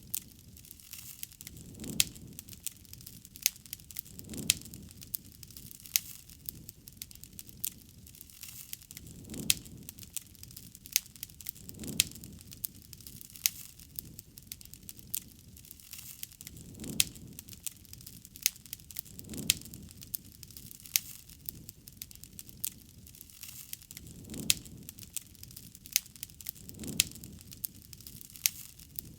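Wood campfire crackling, with frequent sharp pops and snaps over a low, soft rush of flame that swells and fades every two to three seconds.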